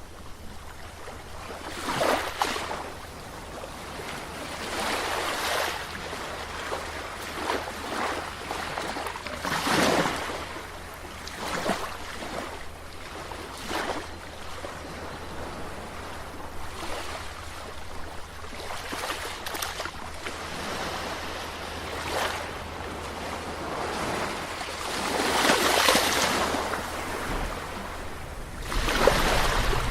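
Sea waves breaking and washing in, coming as a surge every few seconds over a steady wash of water, with the strongest surges near the end.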